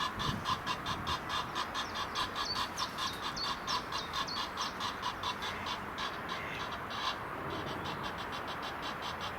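Rapid, evenly repeated animal calls, about four to five pulses a second, that fade about seven seconds in, with a few short bird chirps over them.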